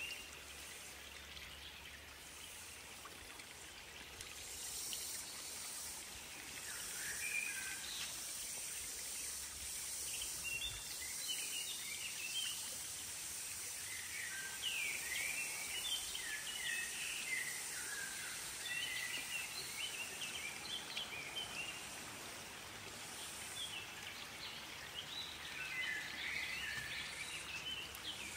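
Birds chirping and calling in several short runs of quick, gliding notes, over a steady high hiss.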